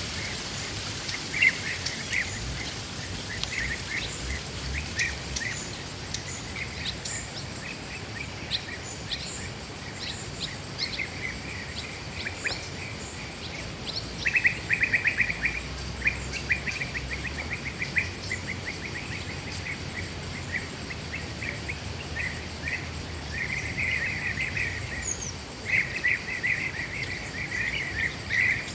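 Birds chirping in quick, rapid trills, with a dense burst about halfway through and more near the end, over a steady background hiss.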